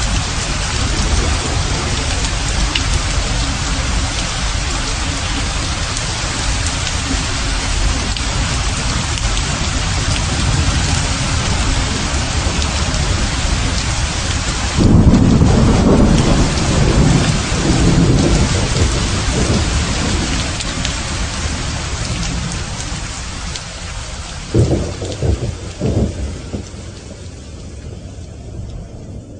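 Heavy rain falling steadily. About halfway through, a loud thunderclap rumbles on for several seconds, and a second, shorter crack of thunder comes near the end as the rain fades.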